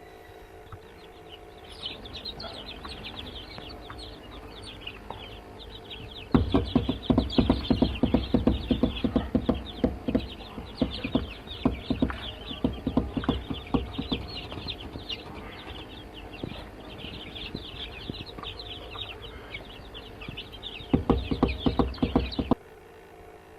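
Many chicks peeping, a dense stream of short, high cheeps. Loud sharp knocks come in quick flurries from about six seconds in, and again near the end, where everything cuts off suddenly.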